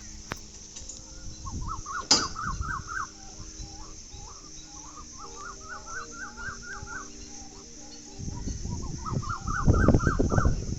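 A bird calling in three quick runs of short, repeated chirping notes over a steady high hiss. Low rumbling noise swells twice and is loudest near the end.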